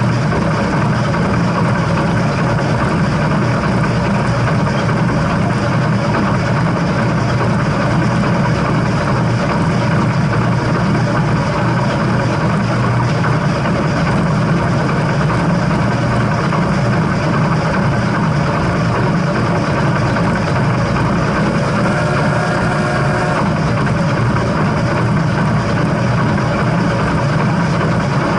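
Steam train running, a steady even rumble and rolling noise without a clear beat.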